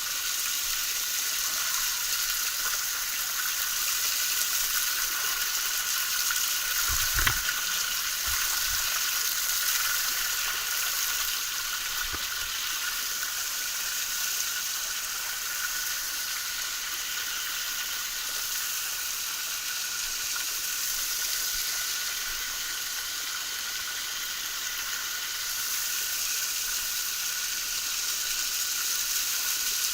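Small forest waterfall splashing in a steady hiss of falling water. A brief low thump comes about seven seconds in.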